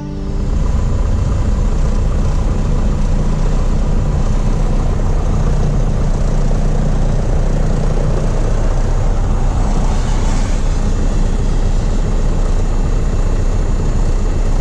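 Piper Cherokee 140's four-cylinder engine and propeller running steadily in flight, a constant drone.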